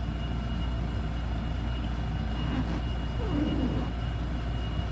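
Steady low mechanical hum with a thin, high steady whine over it, and a brief faint vocal-like sound about three and a half seconds in.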